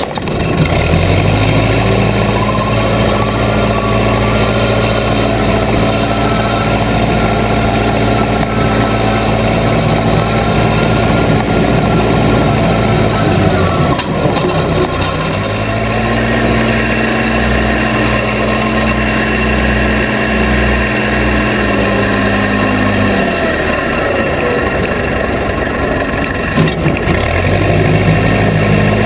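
Case 580B Construction King backhoe's engine running at working speed. It drops back to a lower speed about 14 seconds in and again about 23 seconds in, picking back up each time.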